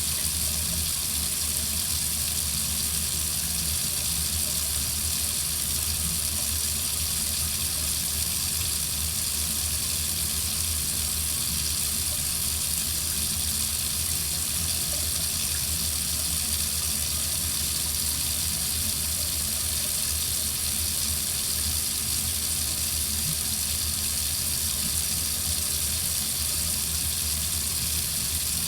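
Water running from a faucet into a sink: a steady, even rush of water with no breaks or changes.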